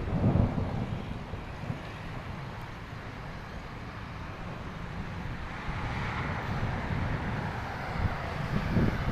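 Wind blowing, with gusts buffeting the microphone in low rumbles near the start and the end, and a rushing swell building around the middle.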